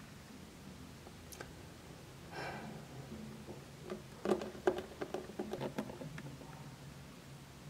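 Light clicks and taps, a dozen or so over about two seconds, from a small plastic Littlest Pet Shop figure being walked by hand across a woven mat. A single click and a short muffled sound come before them.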